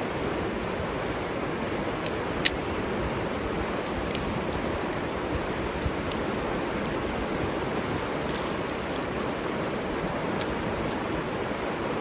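River water flowing with a steady rush. A few sharp clicks stand out over it, the loudest about two and a half seconds in.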